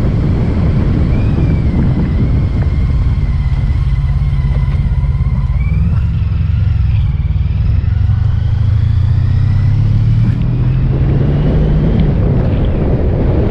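Motorcycle engine running under way over a heavy low rumble, its note climbing gradually through the second half as the bike accelerates.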